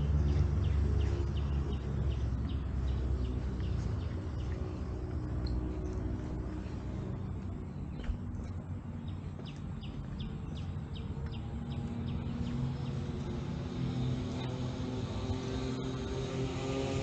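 Road traffic: vehicle engines passing along the road with a steady low rumble, one louder near the start and another coming in near the end.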